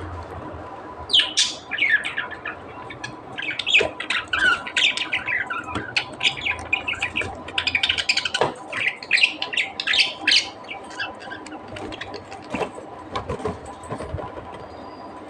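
Budgerigars chattering: a rapid stream of short chirps and squawks, densest for the first ten seconds or so and thinning out toward the end.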